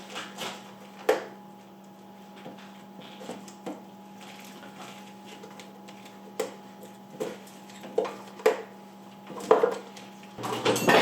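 Scattered knocks and clinks of metal hand tools and parts being handled under the hood, over a steady low hum.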